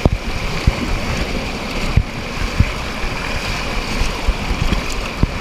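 Steady rushing of river rapids, with wind buffeting the microphone in scattered low thumps.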